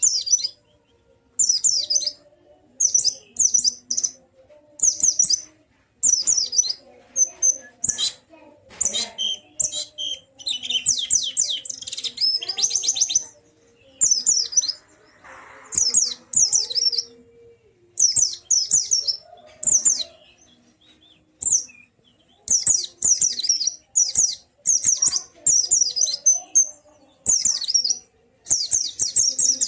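White-eye (pleci) song in the wild 'ngalas' style: rapid high twittering phrases, each about a second long, repeated over and over with short gaps between them.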